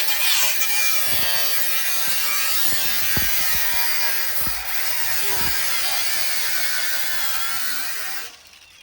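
Milwaukee power tool cutting through car-body sheet metal, its motor pitch wavering under load, with irregular knocks as it bites. It stops about eight seconds in.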